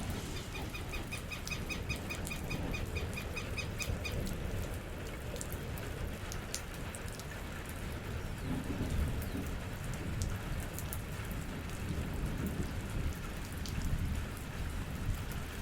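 Steady rain falling, with scattered sharp drips and a low rumble underneath. For the first four seconds a rapid series of high chirps, about five a second, sounds over the rain, then stops.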